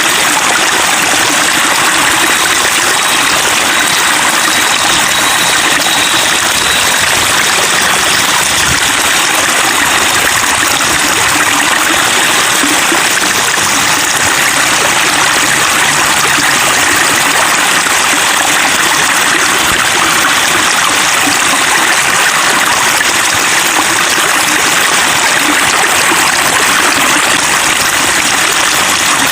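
Running water trickling and babbling steadily, an even, unbroken splashing hiss.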